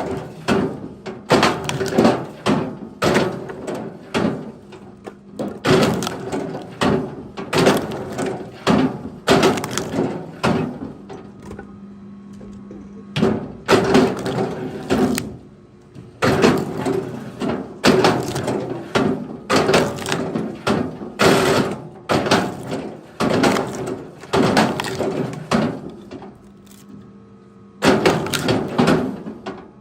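Repeated cracking and knocking of wood, many irregular strokes in quick succession with short pauses, over a faint steady low hum.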